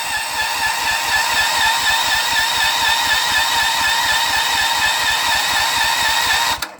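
Electric starter cranking a Honda 15 HP engine, with a whine and an even pulse of about six or seven beats a second from the compression strokes. The engine turns over but never fires, and the starter stops shortly before the end.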